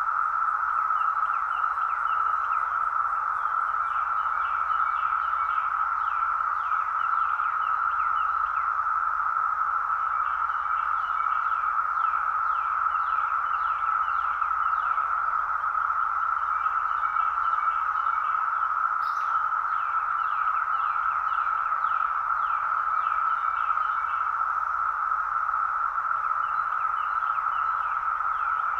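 Dense chorus of Brood X periodical cicadas: a loud, steady drone. A bird chirps repeatedly over it in runs of short falling notes.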